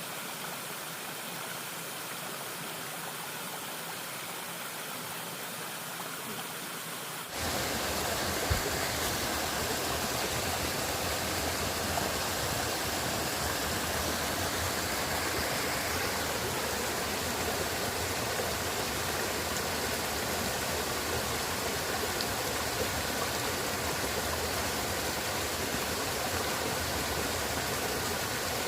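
Steady rushing of a river's flowing water. About seven seconds in, it jumps abruptly to a louder, fuller rush.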